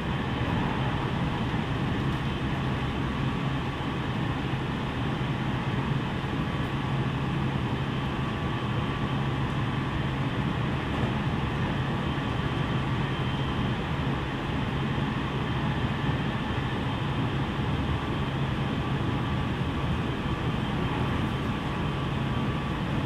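JR West 207 series electric train running at a steady speed, heard from inside a passenger car: an even rumble of wheels on rails, with a few faint steady tones above it.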